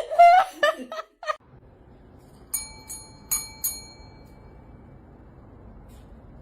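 Laughter trailing off, then four light metallic strikes about a third of a second apart, each ringing like a small bell and fading over a second or two.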